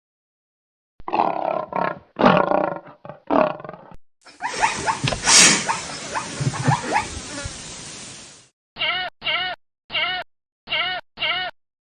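A string of recorded animal calls. First come a few gruff, rasping calls, then a loud noisy stretch of about four seconds, then five short pitched calls in quick succession, each rising and falling.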